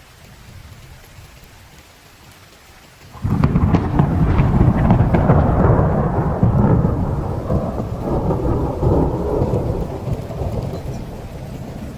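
A thunderclap breaks suddenly about three seconds in and rolls on as a long rumble, slowly fading, over steady heavy rain.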